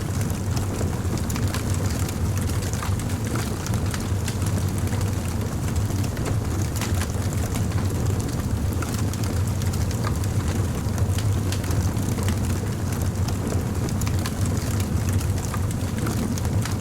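Fire crackling steadily, with frequent small sharp pops over a constant low rumble.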